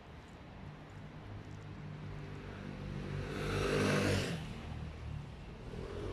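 A motor vehicle passing by: engine hum and road noise grow louder, peak about four seconds in, then fade.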